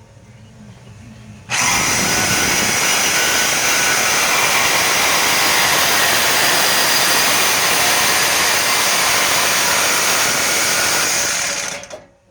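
DeWalt DWE305 corded reciprocating saw cutting through an exhaust pipe. It starts about a second and a half in, runs steadily for about ten seconds, and stops near the end.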